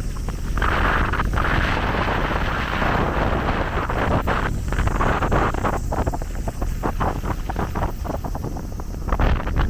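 Gusty wind buffeting the microphone with a low rumble, over a rushing hiss that swells about half a second in and flutters on and off.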